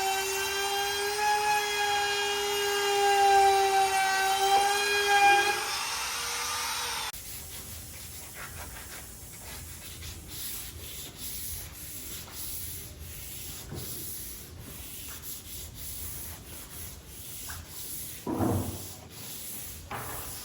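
Electric power tool sanding wood: a steady motor whine with a ringing overtone stack for about seven seconds that stops abruptly, followed by quieter rubbing and scraping on the wood with a louder scrape near the end.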